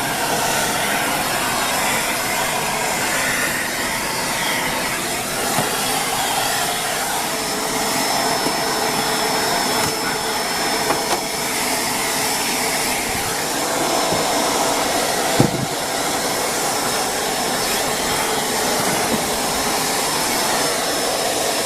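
Shark Rotator Speed Lift-Away upright vacuum cleaner running steadily with its multi-brush dusting tool on the hose, sucking dust along baseboards. A faint high whistle joins about six seconds in and stops just before the end, and a single short knock comes about fifteen seconds in.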